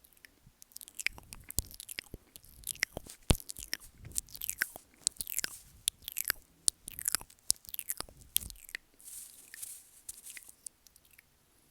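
Close-miked wet mouth sounds for ASMR: lip smacks, tongue clicks and licking or nibbling right on the microphone, in irregular flurries of sharp clicks, with a soft breathy hiss about nine seconds in and sparser clicks near the end.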